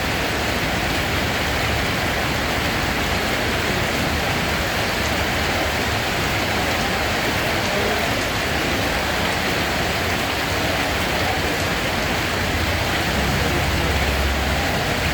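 Steady rain falling on a surface, an even hiss of drops.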